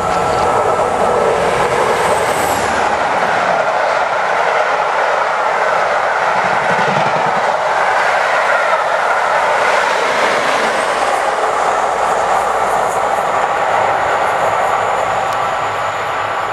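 A train with DRS Class 47 and Class 37 diesel locomotives passing close by: a loud, steady rush of wheels on rail with a clickety-clack rhythm. A high whine falls in pitch a couple of seconds in, and the noise eases off near the end.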